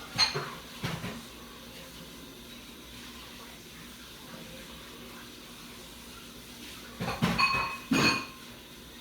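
Hard objects being handled on a table: two knocks at the start, then a quick run of louder clinks that ring briefly about seven seconds in, over a steady hiss.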